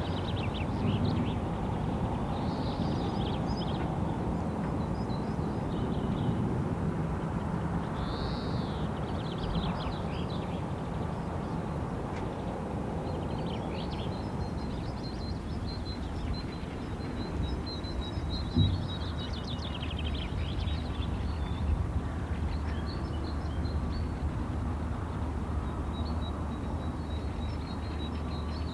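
Wild birds calling and trilling in short, scattered high phrases over a steady low rumble, with one brief knock about two-thirds of the way through.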